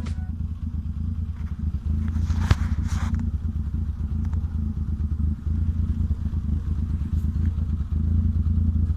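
Car engine running at a steady, low-pitched note with no revving, and a single brief sharp crack about two and a half seconds in.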